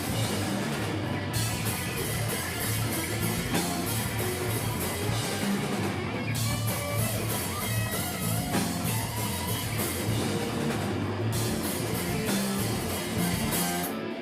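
Live rock band playing guitar, bass and drum kit, with steady cymbal strokes; the music stops abruptly right at the end.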